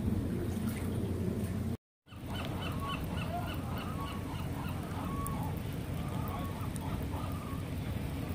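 Birds calling repeatedly with short honking notes over a steady low background noise. The sound cuts out briefly about two seconds in.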